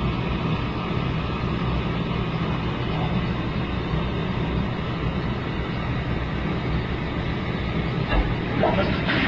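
Toilet running after repeated flushes: a steady rush of water with a low hum underneath, as the bowl empties and the tank refills.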